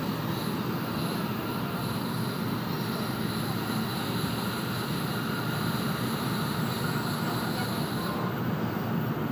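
Steady running noise of an N700-series Shinkansen heard inside the passenger cabin: an even low rumble of the train at speed, with a faint high whine that drops away about eight seconds in.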